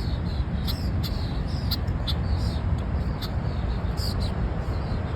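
A bird giving short, high chirps, several at irregular intervals, over a steady low rumble.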